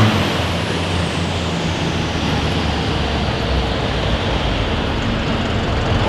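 A pulling vehicle's engine running loud and steady, a dense noise with a low rumble underneath.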